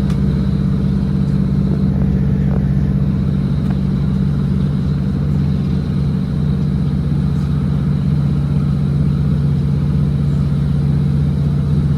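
Class 156 Sprinter diesel multiple unit's underfloor diesel engine running with a steady low drone that holds an even pitch.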